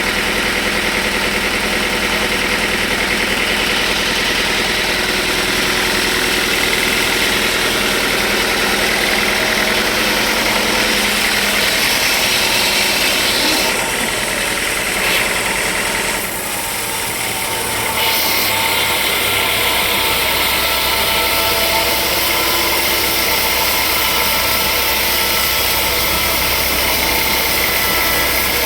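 Sawmill machinery running: a loud, steady mechanical din with several steady tones. It dips and changes briefly a little past halfway, then settles into a steadier low hum.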